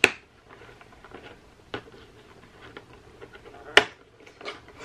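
Fingers working at a cardboard advent calendar door: a few sharp clicks and taps with faint rustling, the loudest about four seconds in.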